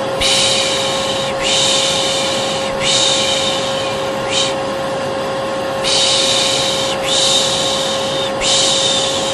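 Vacuum cleaner running steadily with a constant hum. Over it, a repeated 'shhh' shushing of the kind used to lull a baby: about six long shushes of roughly a second each and one short one, with a pause of about a second a little past the middle.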